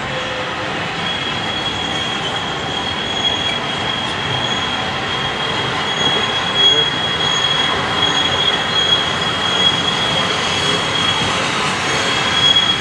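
Steam-hauled train approaching, its wheels giving a steady high-pitched squeal from about a second in, over a rumble that grows slowly louder.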